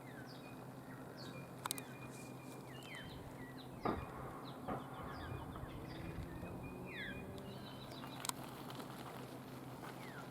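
Wild birds calling outdoors: a run of short chirps and whistled slurs. A few sharp knocks break in, the loudest about four seconds in, over a steady low hum.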